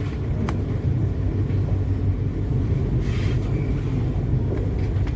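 Passenger train running along the line: a steady low rumble of the rolling carriage, with a few faint clicks and a brief rise in hiss about three seconds in.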